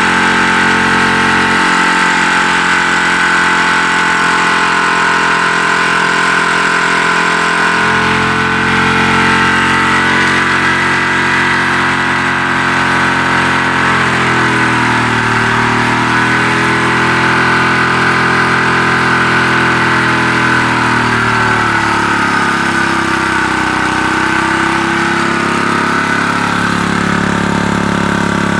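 Small engine fitted with a GEET fuel processor running steadily. Its speed drifts down and back up slowly a few times in the second half.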